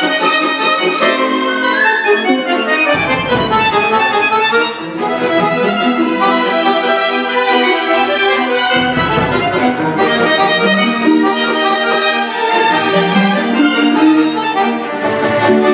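Concert accordion playing a fast solo passage with orchestral accompaniment of winds and strings, dense runs of notes with low bass swells twice.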